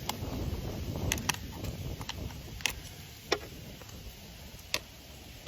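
Farrier's hand tools clicking sharply against a horse's hoof during trimming: about eight irregular clicks in five seconds over a low rumbling background.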